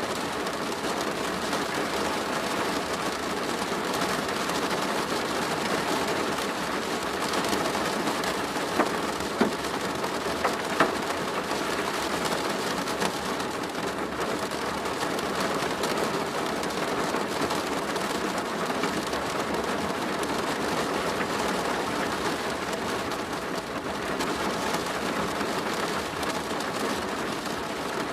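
Steady rain drumming on a plastic roof, with a few sharper single drop hits about a third of the way in.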